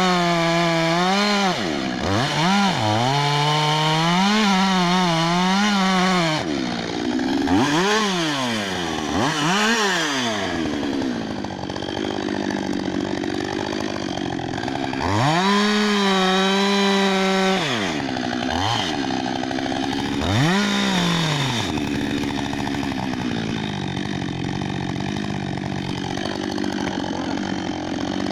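Husqvarna 562 XP two-stroke chainsaw running at high revs, its pitch dropping and climbing back up again and again as the throttle is let off and squeezed. It runs at a steadier, lower pitch over the last few seconds.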